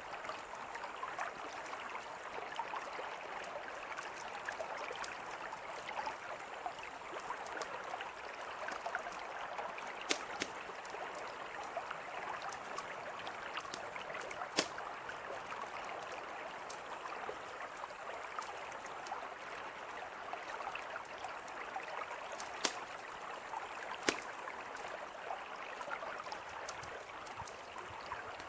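A mountain river flowing steadily, with a campfire crackling over it: scattered small crackles and several sharp pops from the burning wood.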